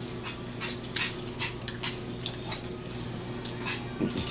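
Celery stalks being bitten and chewed close to the microphone: a run of short, irregular crisp crunches over a steady low hum.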